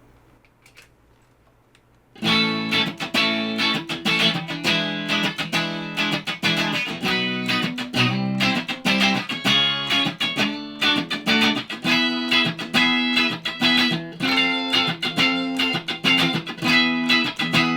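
Fender American Traditional Stratocaster with Noiseless pickups, played through an EVH 5150 III amp and a 2x12 cabinet, strumming full chords hard in quick succession. The chords start about two seconds in, after a brief near-quiet pause with a faint hum.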